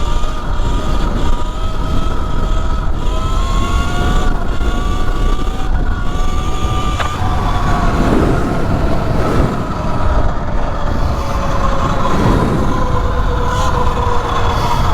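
E Ride Pro SS 3.0 electric motorbike's motor whining while riding, its pitch climbing slowly for the first half and sinking gently after, under a heavy rush of wind on the microphone.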